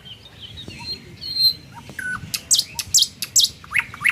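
Birds chirping and calling: scattered short whistled notes, then a quick run of four sharp high chirps in the second half.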